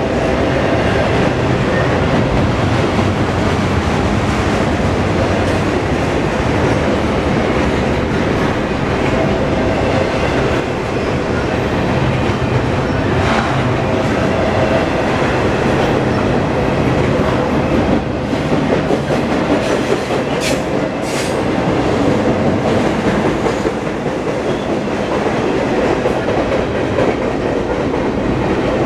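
Freight train of double-stack intermodal container well cars rolling past: a steady, loud rumble and clatter of steel wheels on rail, with a couple of sharp clicks about twenty seconds in.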